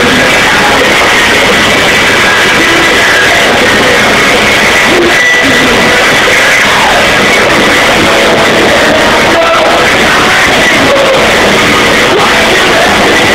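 Live rock band playing loud, with guitars and singing. The recording is overloaded and distorted into a harsh, constant wash with little detail.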